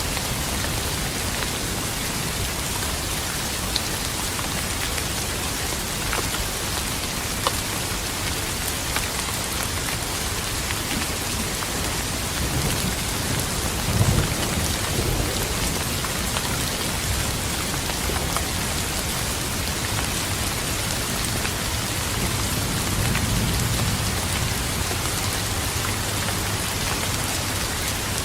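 Steady rain with a few sharp drop hits, and low thunder rumbling twice: the louder roll about halfway through, a softer one later.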